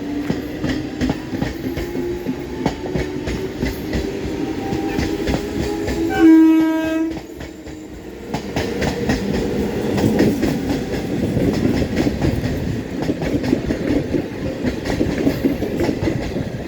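Electric multiple-unit local train: a rising whine over the first few seconds, then a loud horn blast of about a second, six seconds in, followed by steady clickety-clack of wheels over rail joints as the train runs through.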